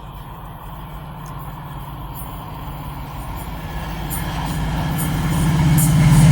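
FrontRunner commuter train approaching, its low rumble growing steadily louder.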